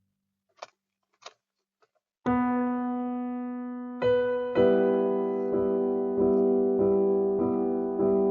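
Gentle solo piano background music begins about two seconds in, then goes on with notes struck at a steady, even pulse. Before it, two brief high chirps.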